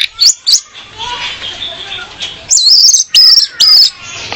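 Female orange-headed thrush calling: quick, sharp, high whistled notes, a softer stretch, then a run of loud high whistles near the end.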